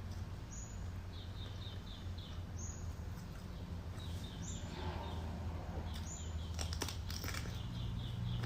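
Small birds chirping in the background: quick runs of four or five short notes and a higher call about every two seconds, over a steady low hum. A few sharp clicks come about seven seconds in.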